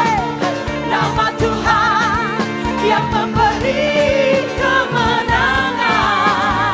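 Live worship band playing an upbeat praise song, with singing voices carrying a wavering melody over a steady drum beat.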